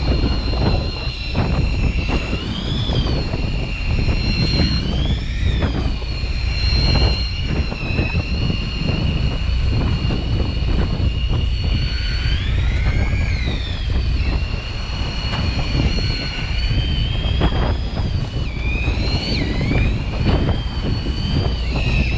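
Fishing boat's engine and hull rumbling steadily, with wind on the microphone. Over it runs a steady high whine that swoops up and down in pitch several times.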